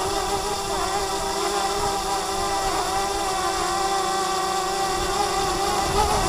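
DJI Mavic Mini quadcopter hovering, its propellers giving a steady whine that wavers slightly in pitch near the end, with strong wind buffeting the microphone.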